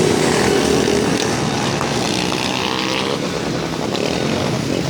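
A vehicle engine running loudly and steadily.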